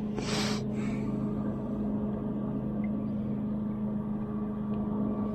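Steady, even drone of a boat's engine on the river, a deep hum that holds its pitch. A brief hiss about half a second in.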